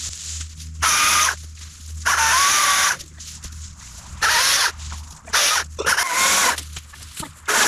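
Small power tool running in about six short bursts of half a second to a second each, its motor whine wavering in pitch from burst to burst.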